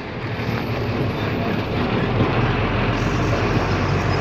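A truck's engine and tyre noise while driving along a rough road, heard from inside the cab as a steady low drone.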